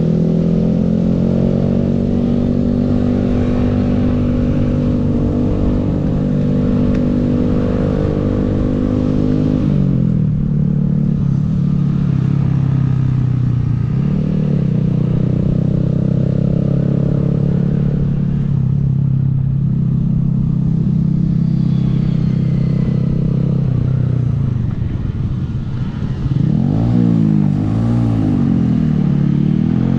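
Honda 125 cc single-cylinder minibike engine running under way, holding a steady pitch, dropping about ten seconds in and again near the three-quarter mark, then rising and falling repeatedly as it is revved near the end. Wind noise on the microphone underneath.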